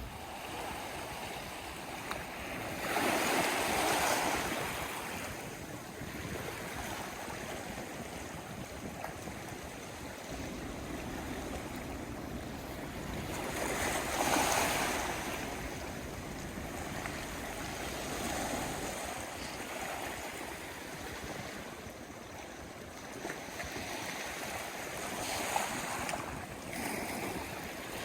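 Sea waves washing onto the shore in a steady wash of surf. Bigger waves surge and break about three seconds in and again about fourteen seconds in, with smaller ones later.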